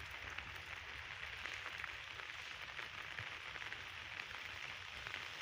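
Rain falling steadily, an even hiss dotted with many small drop impacts.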